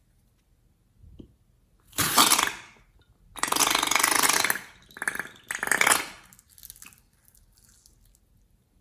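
Slime being squeezed and worked by hand, squelching and crackling as trapped air escapes, in four bursts, the longest about a second.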